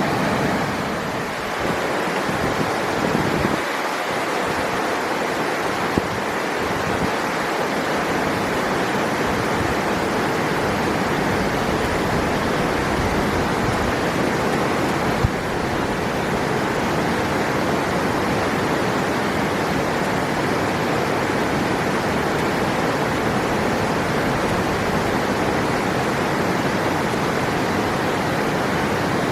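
River water rushing over rocks: a steady, even rush. Two brief clicks cut through it, about six and fifteen seconds in.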